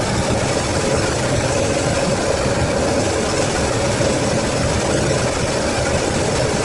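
Freshly rebuilt Toyota 4A-GE 1.6 L twin-cam inline-four, fed by carburettors, idling steadily.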